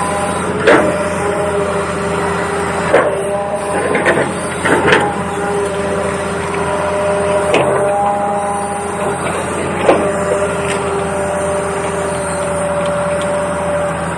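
Small electric motors of a toy RC excavator whining steadily, their pitch shifting as different motors start and stop, with half a dozen sharp clicks and knocks of plastic parts.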